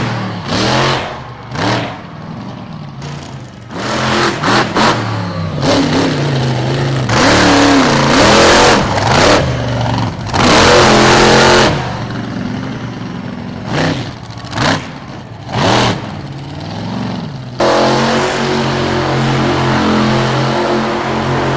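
Monster truck engines revving hard in repeated throttle bursts, the pitch climbing and falling with each blip. About three-quarters of the way through, this gives way abruptly to a steady, even engine drone.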